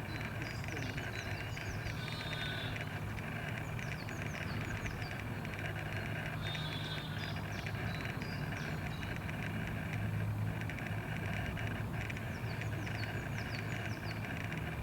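Birds calling with short, repeated falling chirps and a couple of brief buzzy notes, over a steady low hum.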